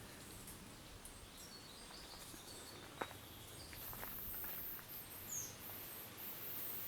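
Faint, scattered short calls of small forest birds, one a quick falling call about five seconds in, with a single click about three seconds in and a faint high hiss setting in from about halfway.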